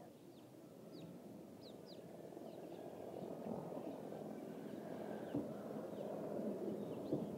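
Small birds chirping in short, falling notes over a low rumble that slowly swells louder, with a couple of dull thumps in the second half.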